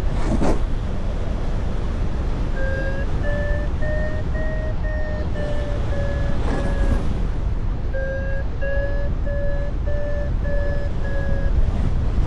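Paragliding variometer beeping, short tones about two a second whose pitch rises and falls slightly, the climb tone that signals rising air. Heavy wind buffeting on the microphone, with two stronger gusts, one just after the start and one in the middle.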